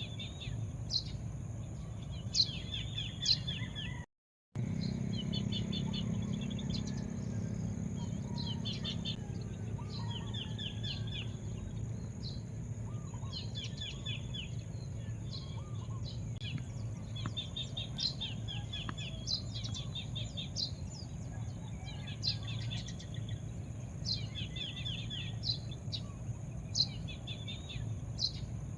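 Birds chirping and calling, with short trills and sharp high notes repeating every second or two, over a low steady rumble. The sound drops out completely for about half a second around four seconds in.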